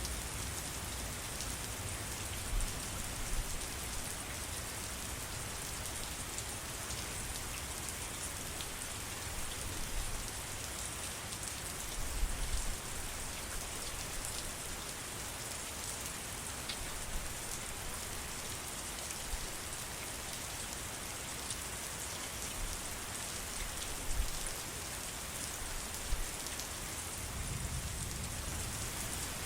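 Steady rain falling: an even hiss of many drops, with a few brief low rumbles underneath now and then.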